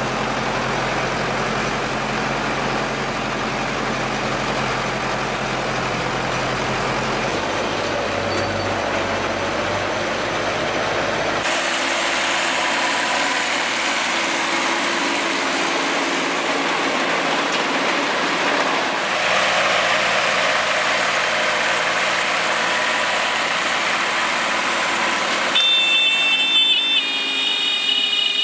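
Farm machinery running steadily: a tractor engine and a working hay baler, heard across several cut-together clips. A high steady whine comes in during the last few seconds.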